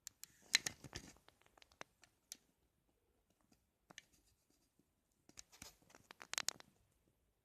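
Faint bursts of scratchy clicking and rattling, like small hard objects being handled. One cluster comes in the first second or so and another about six seconds in, with a few single ticks between.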